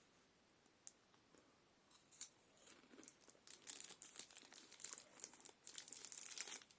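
Plastic wrapper of a Kinder Bueno bar crinkling as it is handled and torn open, a dense run of sharp crackles starting about two seconds in.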